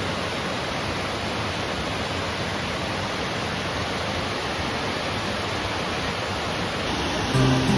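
Crystal Creek Falls pouring into its pool: a steady, even rush of falling water. Music comes in just before the end.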